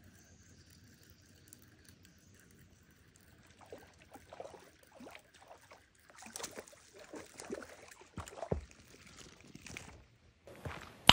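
Faint, irregular water splashing as a hooked trout is reeled in and lifted from the lake, starting a few seconds in, with a single sharp click right at the end.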